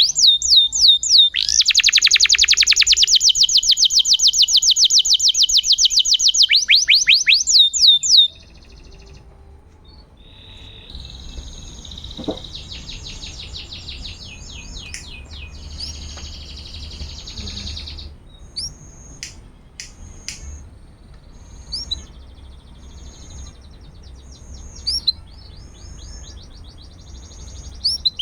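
Domestic canary singing: loud, very fast trilled rolls of repeated notes that cut off abruptly about eight seconds in, followed by a quieter stretch of twittering trills and sharp chirps.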